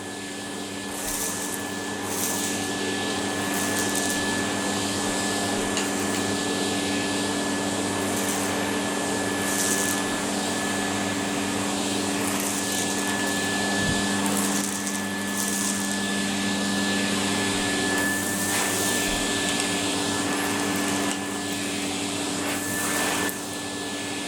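Numatic Henry vacuum cleaner running steadily, a constant motor hum with a thin high whine, with brief hissing rattles every second or two as tiny rocks are sucked up the nozzle off the carpet.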